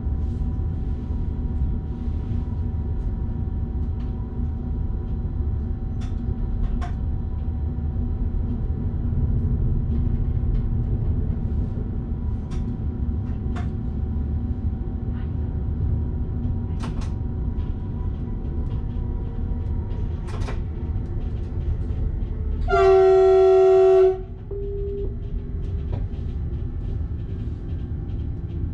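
Train running, with a steady low rumble and scattered clicks in the driver's cab. About 23 seconds in, the train's horn sounds one loud blast of a little over a second.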